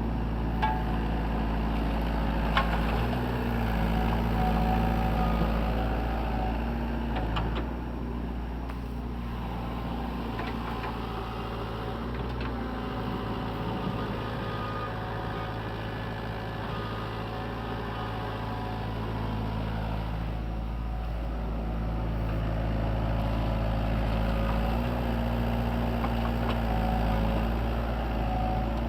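SANY mini excavator's diesel engine running steadily, growing louder about three seconds in and again near the end as it works. Two sharp clanks come in the first three seconds.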